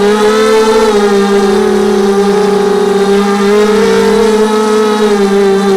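250-size FPV racing quadcopter's motors and propellers whining steadily, the pitch rising and dipping slightly with the throttle.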